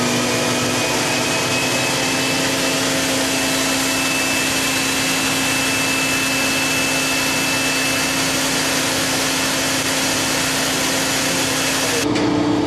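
Spindle of an Okuma double-column machining center's standard attachment head running steadily at 8,000 RPM: a steady whine over a loud hiss. Near the end the sound changes abruptly, the hiss dropping away and a lower hum taking over.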